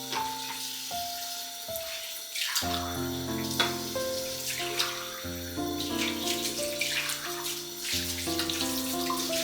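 Water running from a tap into a sink, splashing unevenly, over background music with a steady bass line.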